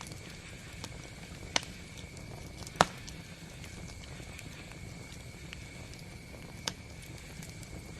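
Campfire burning with a steady low rumble and scattered sharp crackles and pops, three of them standing out, the loudest about three seconds in.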